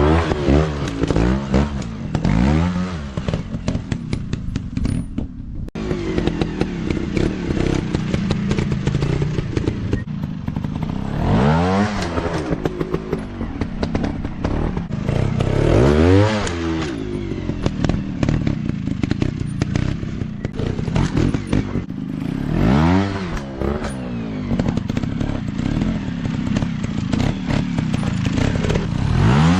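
150cc dirt bike engines running, the pitch rising and falling several times as the riders work the throttle.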